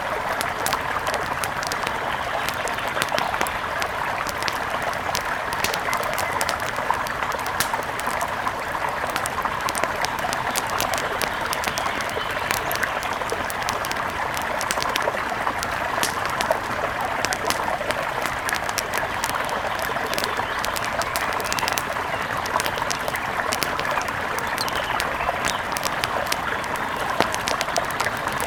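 Steady rush of a mountain river, with many small sharp crackles and clicks scattered irregularly throughout.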